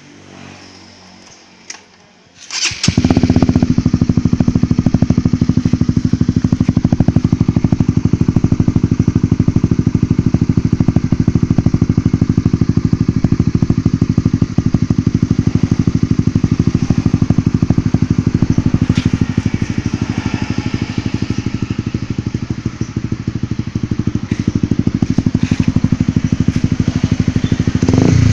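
Honda CB150R's single-cylinder engine, fitted with an Akrapovic aftermarket exhaust, starting about three seconds in and then idling steadily with a fast, even pulse.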